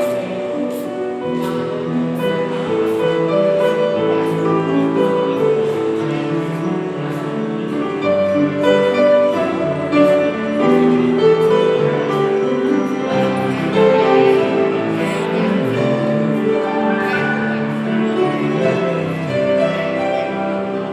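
Piano playing a melody over chords.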